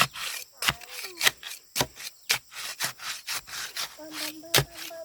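Hand saw cutting wood in quick back-and-forth strokes, about two a second, each stroke rasping with a sharp knock.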